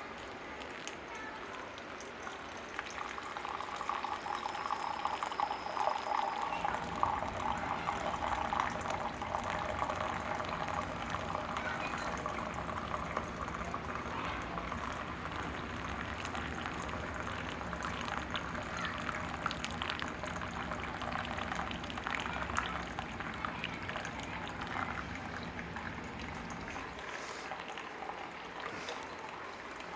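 Water boiling for coffee, bubbling and crackling steadily; it grows fuller a few seconds in and eases near the end.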